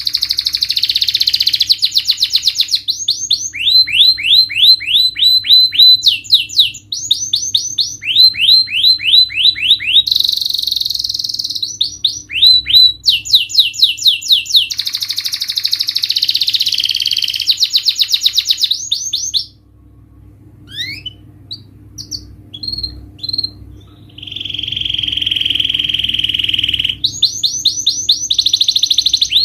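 Domestic canary singing: long runs of fast repeated high trill notes, several different rolls in turn. Past the middle the song breaks off for a few seconds with only scattered chirps, then comes one long steady whistled note before the fast trills resume.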